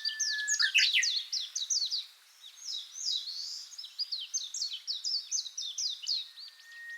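Birdsong: several small birds chirping in quick, downward-sweeping notes, with a short steady whistled note near the start and again near the end, and a brief lull about two seconds in.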